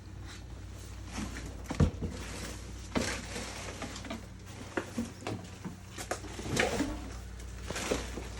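Irregular knocks and rustling clatter from objects being handled and stepped on, with the sharpest knocks about two and three seconds in.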